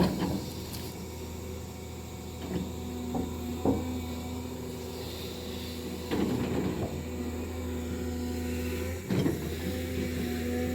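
Engine of a heavy earth-moving machine running steadily, with several scattered clunks and knocks of earthwork; the engine note dips briefly about nine seconds in.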